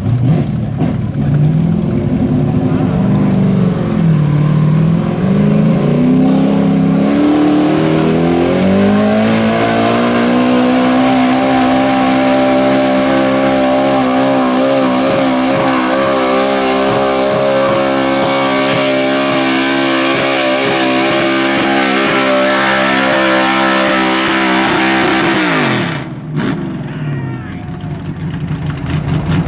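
Small-block V8 pulling truck's engine under full load during a pull. The revs rise and fall for the first several seconds, then climb and hold high and steady for about fifteen seconds before dropping off sharply near the end.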